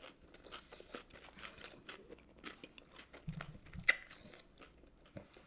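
Close-miked chewing of crunchy fried chicken, with many small crackling crunches and one sharper crunch about four seconds in. A brief low hum of the eater's mouth comes a little after three seconds.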